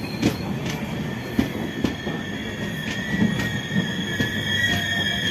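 Passenger train running on its rails, with irregular clicks and knocks from the wheels over the track. From about two seconds in, a steady high wheel squeal joins in.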